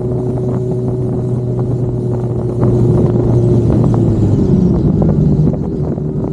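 A motor vehicle engine running steadily, getting louder about two and a half seconds in and dropping slightly in pitch a little later, with scattered clicks.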